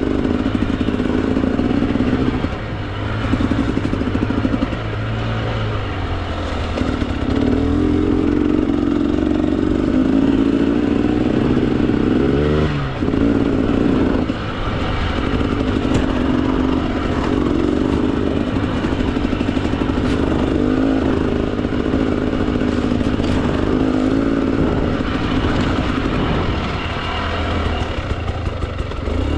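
Two-stroke dirt bike engine, a Husqvarna TE 300, running under load on a trail and revving up and down as the throttle is worked. It comes with rattling from the bike. About 13 seconds in there is a quick rise and fall in pitch, and the engine dips briefly about 2 seconds in and again near 14 seconds.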